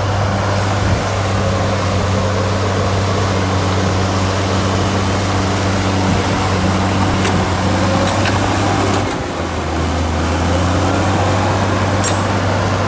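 Heavy diesel engine of earthmoving machinery running steadily at a constant pitch, with a brief dip in level about nine seconds in.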